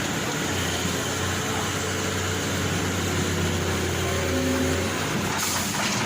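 Diesel engine of heavy earthmoving machinery running steadily, a low hum under broad engine noise.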